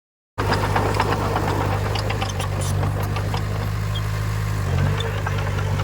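Heavy-equipment diesel engine running steadily, with scattered metallic clanks and rattles. It cuts in abruptly less than half a second in, and its note shifts briefly near the end.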